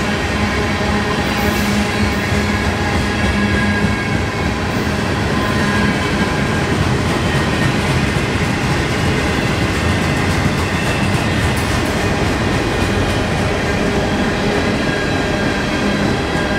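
Freight train cars rolling past at close range: a steady rumble and clatter of steel wheels on rail, with a few faint steady squeal tones from the wheels.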